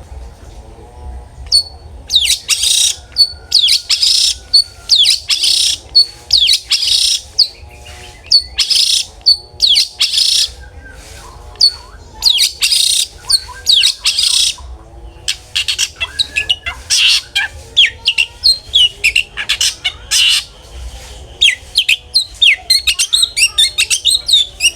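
Long-tailed shrike (cendet) singing loudly in a run of harsh, scratchy phrases and sharp high notes, broken by short pauses; in the last few seconds the notes come quicker and thinner.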